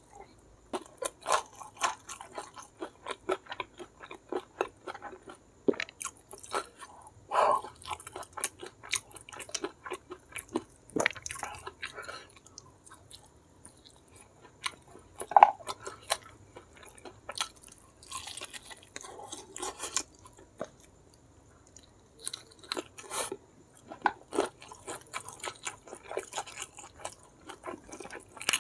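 A person chewing right up at the microphone, eating sambal-coated ayam geprek (crispy smashed fried chicken) with rice and clams: wet lip smacks and crunches in close runs. There are brief pauses between mouthfuls and one louder smack about halfway through.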